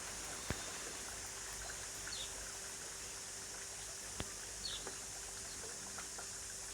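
Steady hiss of heavy rain falling. Two sharp crackles from a small fatwood fire and short high bird chirps every couple of seconds cut through it.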